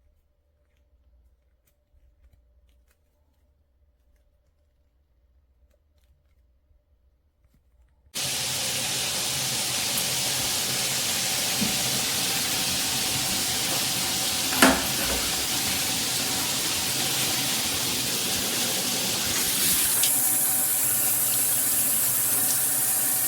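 Faint clicks, then water suddenly starts spraying steadily from the Jcrob rain and handheld shower combo. There is a single knock partway through, and the spray turns to a brighter hiss near the end.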